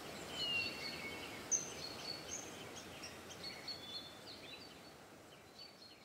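Several birds chirping and whistling in short, quick calls over a faint hiss, the whole fading out gradually.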